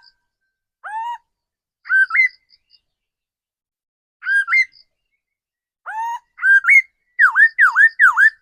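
Laughingthrush singing, the song of a decoy bird used to lure wild ones: clear whistled notes, first single upward-sweeping whistles about a second apart, then two-part whistles, and near the end a quick run of four swooping down-and-up notes.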